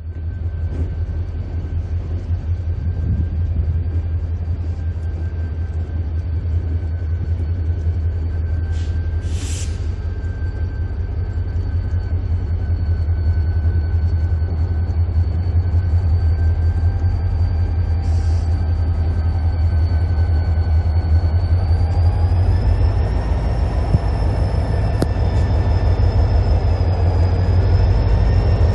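Diesel freight locomotives running with a heavy, deep rumble and a steady whine, growing slowly louder. A little after two-thirds of the way in, the whine rises in pitch as the engines load up. A brief hiss comes about a third of the way in.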